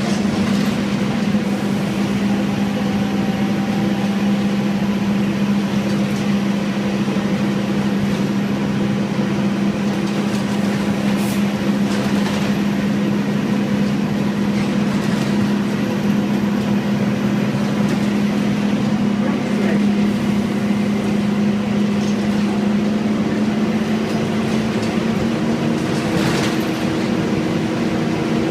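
Scania N230UD bus's five-cylinder 9-litre diesel engine running at a steady pitch as the bus drives along, with a few faint knocks or rattles. Near the end the engine note shifts and a higher tone joins in.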